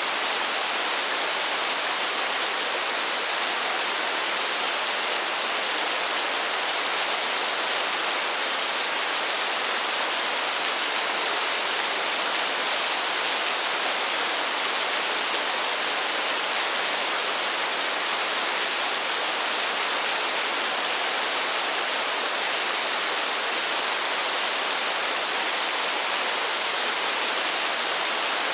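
Steady rain, an even hiss with no single drops or other sounds standing out.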